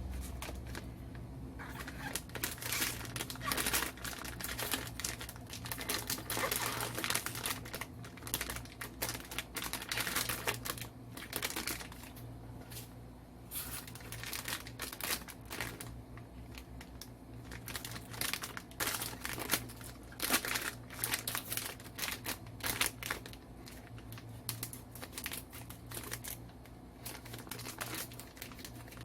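Toy packaging being handled and opened, crinkling and rustling in quick irregular crackles that stop and start, over a faint steady low hum.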